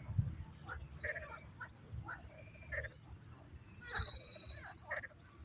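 Frogs croaking in short calls one after another at irregular intervals, with a short high whistle about four seconds in.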